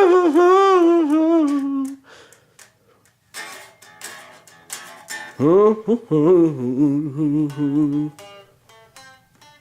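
Slow blues: two long, wavering, sliding notes, each scooping up in pitch at its start, the first fading about two seconds in and the second running from about halfway to near the end, with quieter plucked sounds between.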